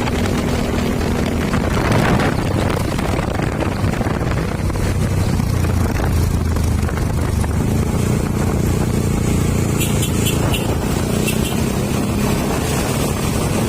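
Truck engine running steadily as the truck drives along the road, with road and traffic noise.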